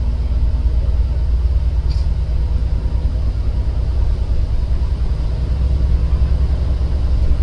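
Steady low rumble of a running vehicle, with a faint hum over it.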